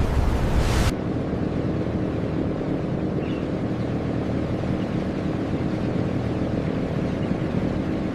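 Steady low mechanical drone of a large ship's engines under way, with several even hum lines. It cuts in abruptly about a second in, replacing a rush of wind and surf noise.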